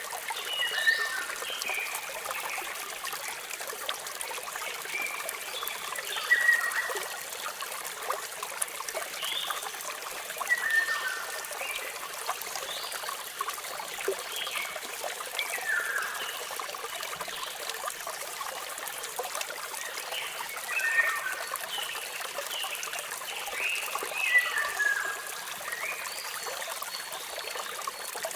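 Steady trickling and splashing of falling water, with birds chirping in short quick phrases every few seconds over it.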